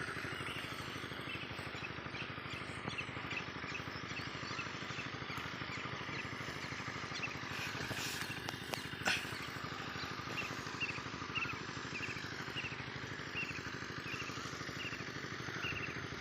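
Diesel water pump engine running steadily with an even, rapid firing beat. Over it a bird chirps repeatedly, about two short calls a second, and there are a couple of sharp clicks a little past halfway.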